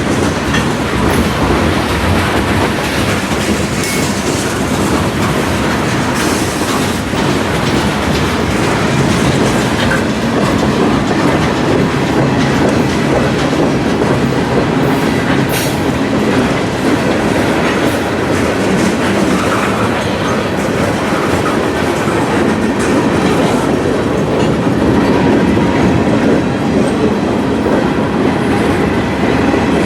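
A train's cars rolling steadily past at close range, wheels clacking over the rail joints, with a faint wheel squeal now and then.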